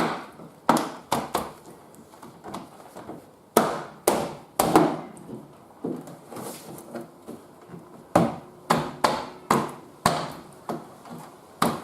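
Door trim panel being knocked into place on a ute's door: a string of about twenty sharp, irregular knocks with short gaps, seating its fasteners until they are in solid.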